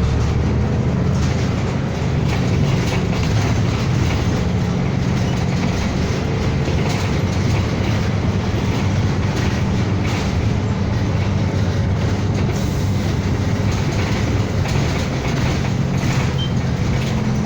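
Inside a city bus under way: the engine's steady low drone with road noise and occasional light rattles from the cabin.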